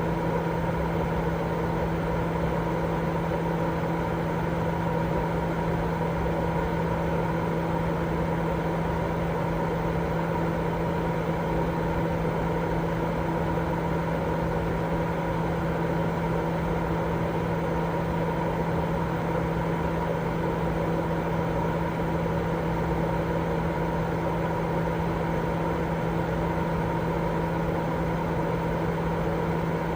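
Continuous baby-sleep white noise: a steady, unchanging hiss with a constant low hum running through it.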